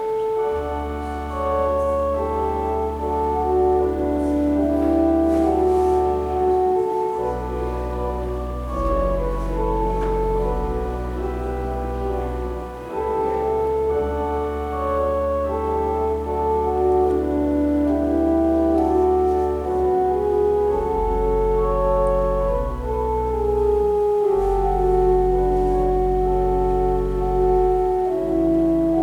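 Organ playing slow, sustained chords over deep held pedal notes that change every few seconds, with a melody moving above.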